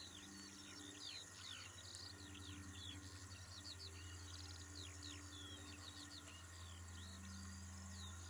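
Faint birdsong: a dense, continuous run of short, quick chirping notes, over a low steady hum.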